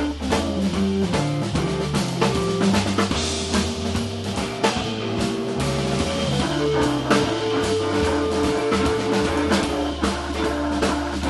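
Live jazz organ trio playing an up-tempo tune: a drum kit with snare rimshots and cymbals drives under electric guitar and an organ bass line that steps from note to note.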